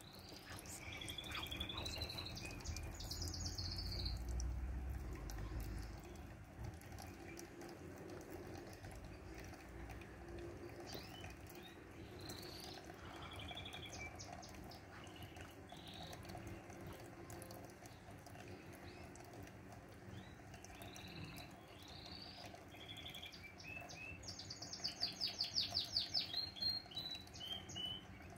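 Small birds chirping here and there in the background, with a fast chattering trill, the loudest sound, about three-quarters of the way through. A low rumble runs under the first few seconds.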